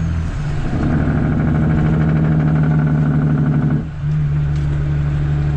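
CAT C13 diesel in a Kenworth W900B with its jake (engine compression) brake engaged: a loud, rapid staccato bark that starts about half a second in and cuts off suddenly near four seconds. After that the engine runs on steadily.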